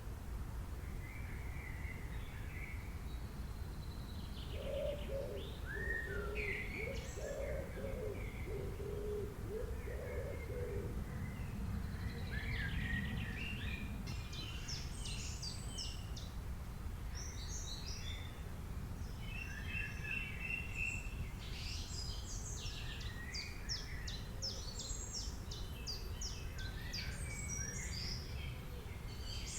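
Several wild birds singing and chirping, with quick high trills and chirps growing busier from about halfway through. A lower-pitched run of calls comes in about five seconds in and stops about five seconds later, over a steady low background rumble.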